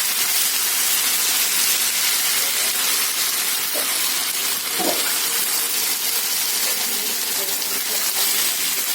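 Chicken pieces sizzling in hot oil with fried shallots and curry leaves in a pan, a steady hiss, with two faint knocks a little before halfway and at about halfway.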